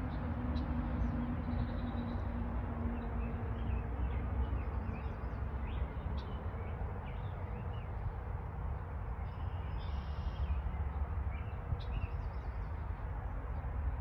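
Small birds chirping, with short high calls scattered throughout and a longer burst of calls about ten seconds in, over a steady low rumble.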